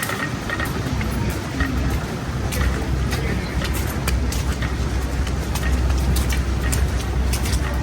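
Low rumble of a heavy motor vehicle running close by, growing about a second in and holding steady, amid city traffic noise with frequent short clicks.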